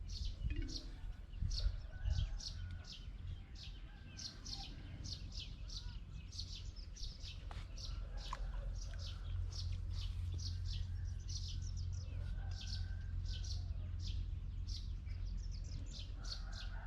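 Small birds chirping, a fast string of short high chirps, several a second, over a steady low rumble.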